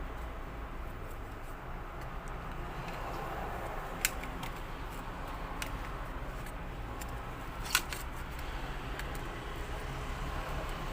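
Light clicks and taps of parts being handled and fitted while reassembling a vacuum cleaner's cable rewind reel, with two sharper clicks about four and eight seconds in, over a steady low hum.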